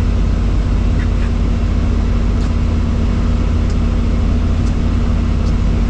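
Helicopter engine and rotors running, a loud constant drone with a steady hum.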